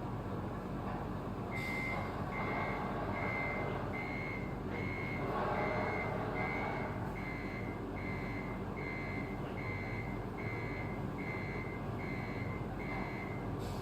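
Reversing beeper of an RC Scania truck's sound module: one high beep repeating a little faster than once a second, about fifteen times, starting about a second and a half in. A steady low hum runs underneath and swells briefly around the middle.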